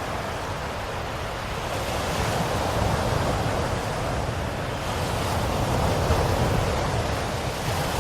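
Ocean waves breaking and washing in, a continuous surf that swells and eases a little over a few seconds.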